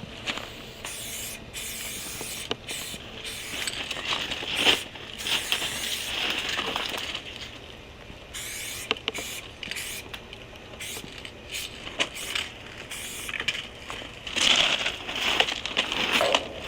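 Aerosol spray paint cans spraying in repeated bursts of hiss, some short and some held for a second or more, with occasional sharp clicks between them.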